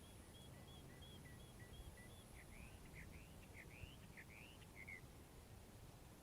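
Faint songbird song: a run of short notes alternating high and lower for about two seconds, then a series of quick up-and-down sweeping notes that stops about five seconds in, over a low outdoor rumble.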